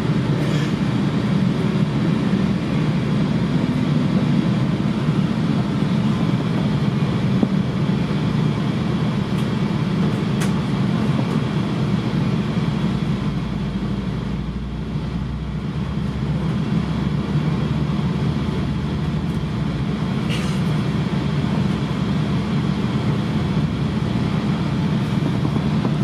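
Steady running noise of a Sounder commuter train passenger coach rolling on the rails, heard from inside the car: a continuous low rumble with a couple of faint clicks.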